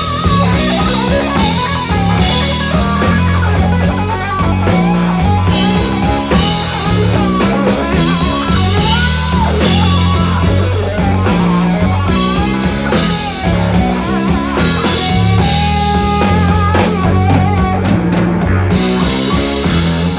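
Live rock band playing: electric guitar lead with bending notes over bass and drum kit.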